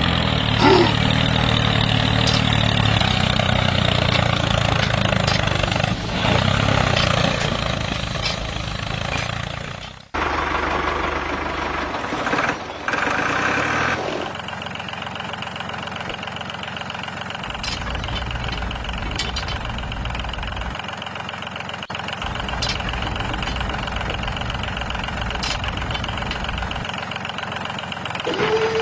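A steady motor or engine running sound. Its character changes abruptly about ten seconds in and again about fourteen seconds in.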